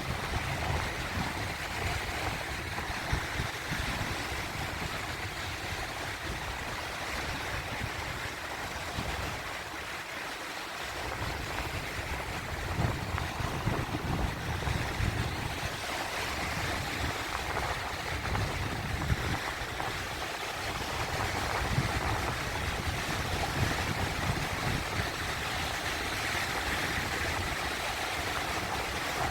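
Sea waves washing in a continuous rushing noise with a low rumble, easing slightly about a third of the way in and building again.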